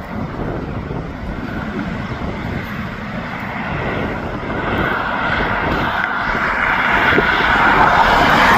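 Union Pacific intermodal freight train led by GE diesel locomotives approaching, its engine and wheel noise growing steadily louder.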